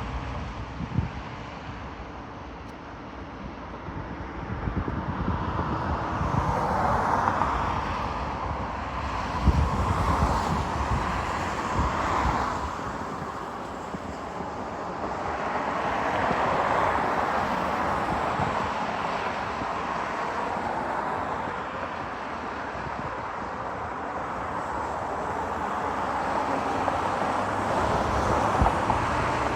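Outdoor ambience of road traffic: vehicles passing one after another, each swelling and fading over a few seconds, over a low rumble.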